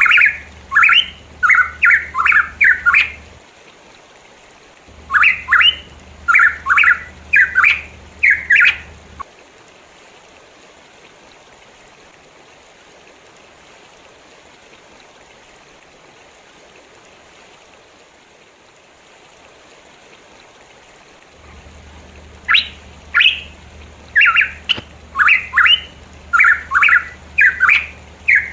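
Pitohui singing in bouts of short, loud, sharply pitched notes, about two a second, with a long pause of some twelve seconds in the middle. A faint steady hiss lies underneath, and a low hum comes and goes with the song.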